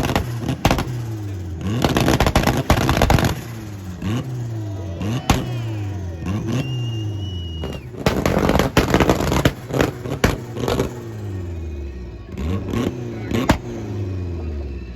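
Car engine held on a two-step launch limiter: repeated bursts of rapid popping and banging from the exhaust as it revs against the limiter. Between bursts the revs drop off, about five or six times.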